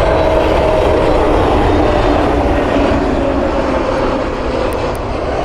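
Jet airliner passing close by, its engines making a steady roar with a whine that slowly falls in pitch as it goes past.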